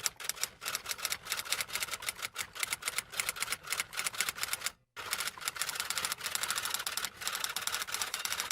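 Typewriter keys clattering in quick succession, many strikes a second, with a short break about halfway through before the typing resumes.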